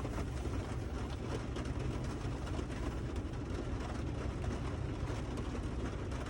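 Steady low rumble with a hiss inside a truck's cab, sprinkled with many faint light ticks, unchanging throughout.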